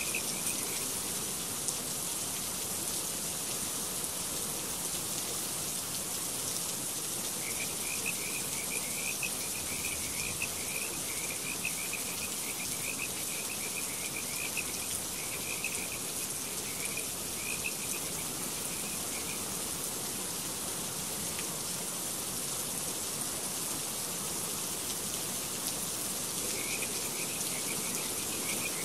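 Steady running water from a rainforest paludarium's water feature, a constant hiss. Over it, rapid high chirping calls come in a long stretch from a few seconds in to about two-thirds of the way through, and again near the end.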